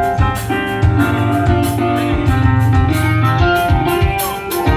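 Live band playing: guitar over a bass line, with steady drum hits.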